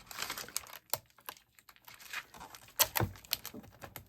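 Plastic packaging being handled and picked at by hand: irregular sharp clicks and crackles, loudest about three seconds in.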